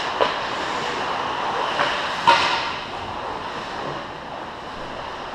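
Ice hockey rink during play: a steady hiss of skates on ice and crowd noise, with a few sharp stick, puck or board hits, the loudest a little over two seconds in.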